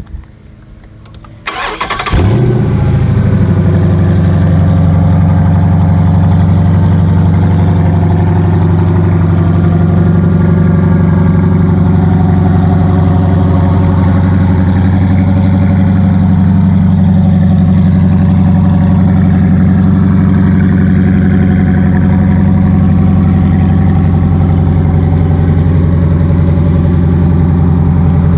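6.4-litre HEMI V8 crate engine cranking briefly and firing up about two seconds in, then idling steadily.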